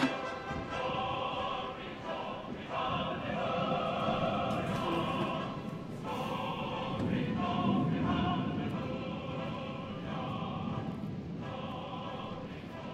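Choral music on the film's soundtrack: a choir singing held notes that shift every second or so.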